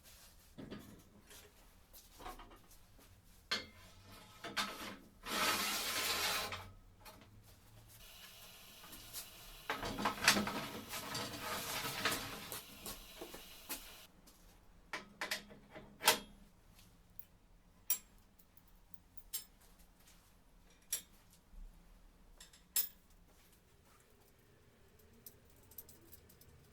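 Hand work on metal parts: scattered clinks and knocks, with two spells of scraping or rubbing, the second about ten seconds in and lasting a few seconds.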